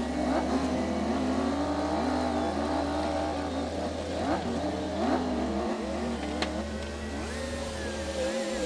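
Komatsu D60P bulldozer's diesel engine working under load, its pitch rising and falling repeatedly as the throttle and load change, with a steadier higher whine near the end.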